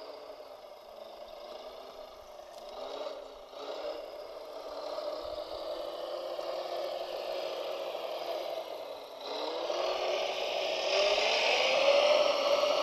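Whine of the electric motors on a radio-controlled model construction machine, with scraping and rattling. About nine seconds in, the whine rises in pitch and gets louder.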